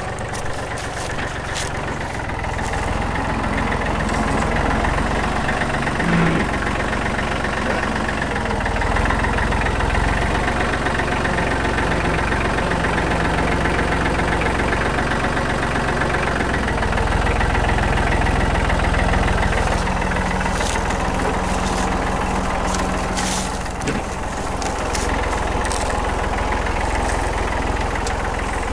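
Engine running at a steady idle with a low rumble, swelling a little in level now and then.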